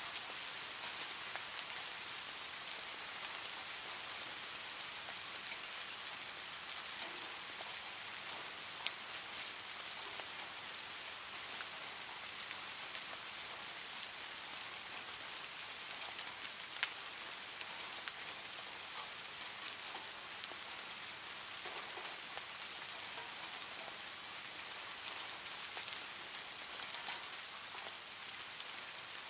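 Steady heavy rain on a tin roof: an even hiss of drops, with now and then a single sharper drop tick standing out, most clearly about nine and seventeen seconds in.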